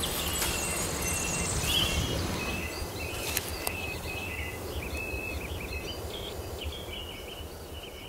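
Birds chirping in short, repeated calls over a steady low background noise, the whole growing quieter toward the end.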